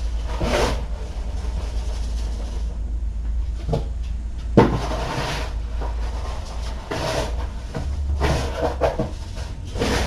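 Cat litter being scooped: a series of short scrapes and rustles, about half a dozen, over a steady low electrical hum.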